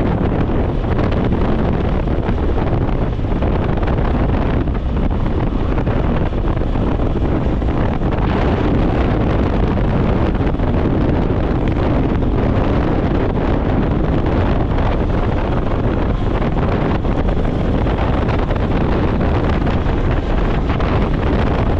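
Steady wind rushing over the microphone of a GoPro on a moving motorcycle, over a low rumble of road and engine.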